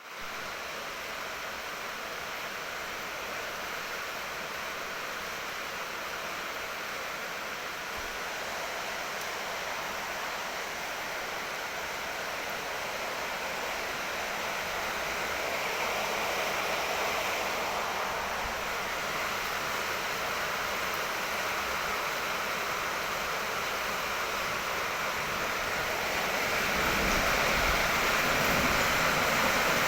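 Heavy rain pouring steadily, a dense hiss that slowly grows louder. Near the end it grows heavier still, and a low rumble of thunder joins it.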